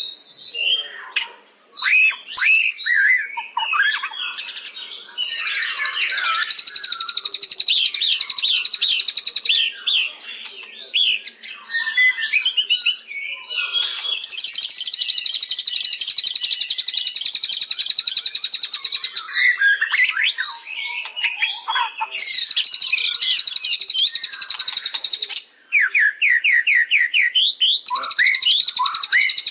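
White-rumped shama (murai batu) singing. Varied whistled phrases alternate with long, rapid, high trills that each last several seconds.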